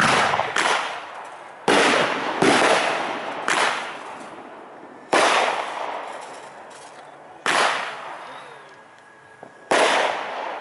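Aerial fireworks shells bursting one after another, about eight sharp bangs in ten seconds, each trailing off in a long echoing decay.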